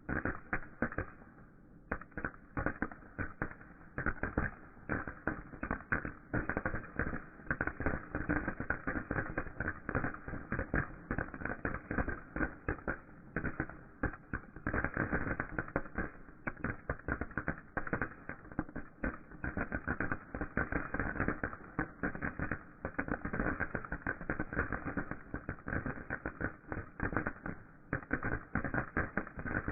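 Consumer firework crackling continuously: a dense run of rapid small pops and crackles with no single big bang.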